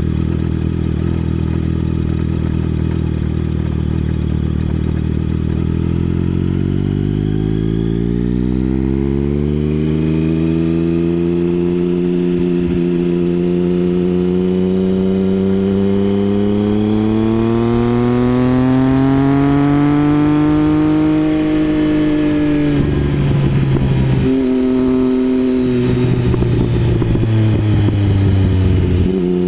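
Triumph Speed Triple 1050's three-cylinder engine through a Mivv aftermarket exhaust. It runs at a steady low note, then climbs smoothly in pitch for about fifteen seconds as the bike accelerates. Near the end the note drops sharply and picks up again a few times as the rider shifts gear or rolls off the throttle.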